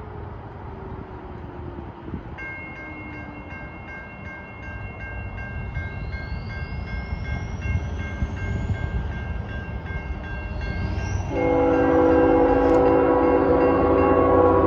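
A train rumbling past, with a steady, evenly pulsing ringing like a grade crossing bell from about two seconds in. About eleven seconds in, a locomotive's multi-note air horn starts blowing loudly and holds.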